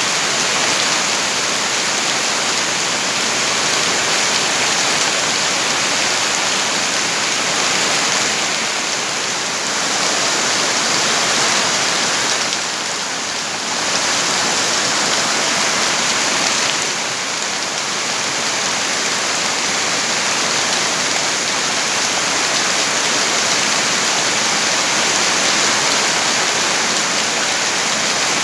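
Steady heavy rain: a dense, even hiss of falling drops that eases briefly about halfway through, then comes back.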